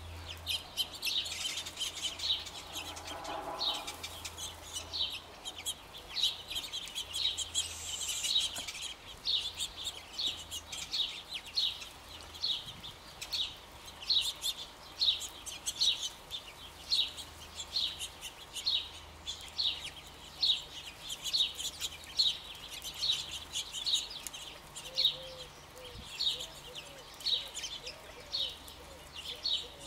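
Birds chirping steadily: short high calls repeated about once or twice a second, with a few soft low cooing notes near the end.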